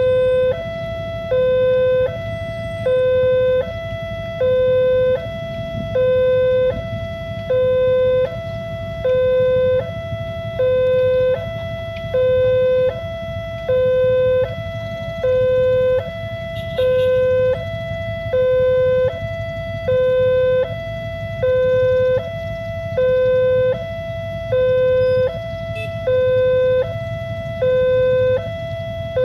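Railway level-crossing warning alarm sounding, an electronic two-tone signal alternating evenly between a lower and a slightly higher tone, about one cycle every second and a half, warning that a train is approaching. A steady low rumble runs underneath.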